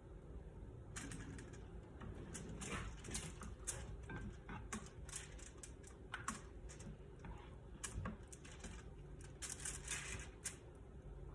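Irregular light clicks and taps from kitchen utensils and dishes being handled, over a low steady hum.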